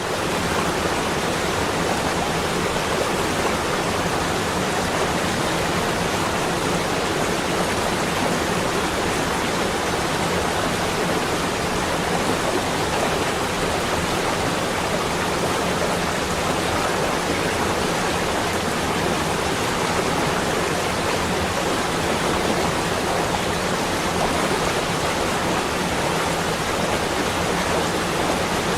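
A steady, unbroken rushing noise, even from low to high pitch and unchanging in level.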